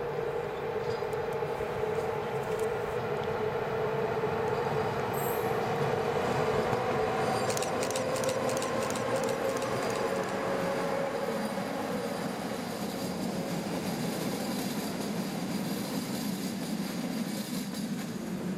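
Class 461 Co-Co electric locomotive hauling a passenger train past at speed. The sound builds as it approaches and is loudest a little past the middle, with a quick run of wheel clicks as the train goes by, then it fades as the train moves away.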